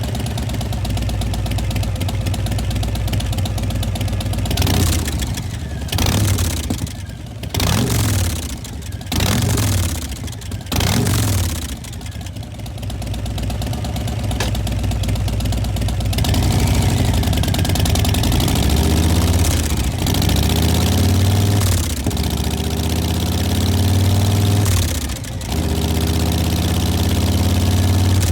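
Milwaukee-Eight 114 V-twin of a 2020 Harley-Davidson Fat Boy, breathing through a Vance & Hines Big Radius exhaust, idling and then revved in several quick throttle blips. Later it is revved higher and held there for longer stretches before dropping back to idle near the end.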